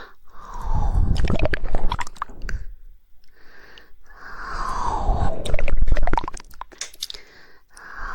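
Close-miked ASMR mouth sounds: rapid wet tongue clicking, the fast 'woodpecker' tongue flutter, in two long runs, each growing louder and falling in pitch.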